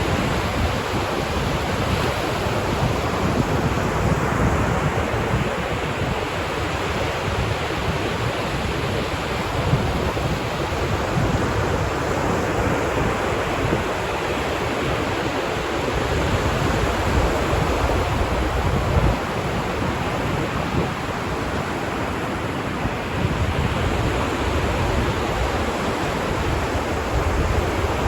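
Ocean surf washing continuously onto a beach, swelling and easing slowly, with a low wind rumble on the microphone.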